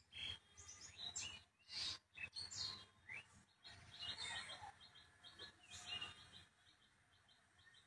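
Faint chirping of small birds: a short high chirp repeated several times a second, with a few brief rustling noises in the first few seconds.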